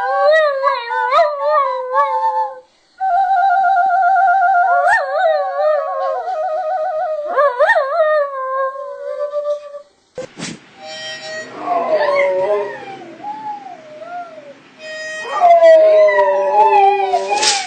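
Dogs howling along with music: long wavering howls over a held, wobbling musical note, then, after a break about ten seconds in, a dog's gliding howls and yips that swell near the end.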